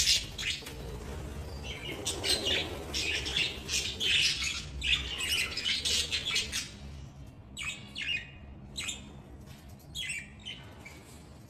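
Budgerigars chirping and chattering, many short squawky calls overlapping thickly in the first half, then thinning to scattered calls.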